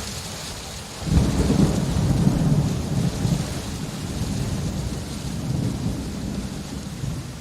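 Steady rain with a roll of thunder: a deep rumble breaks in about a second in, is loudest for the next couple of seconds, then slowly rumbles away under the rain.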